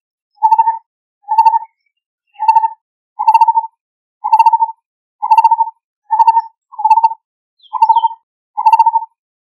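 Lineated barbet calling: a steady series of short, hollow, low-pitched trilled notes, about one a second.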